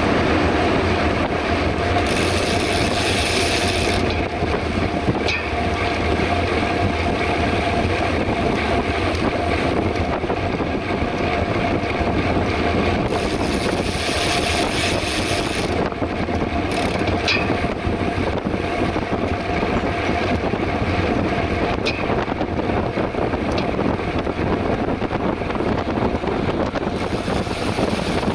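Steady rush of wind and tyre noise from a mountain bike riding fast on a paved road, with a steady hum running underneath and a few faint clicks.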